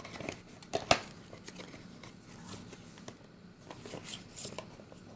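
Hands handling packaging and washi tape rolls: faint rustling and crinkling with a few sharp clicks, the loudest about a second in.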